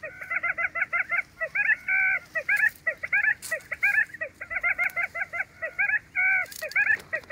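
Wild quail calling: a rapid, continuous run of short hooked notes, several a second, with a few longer drawn-out notes about two seconds in and again near the end.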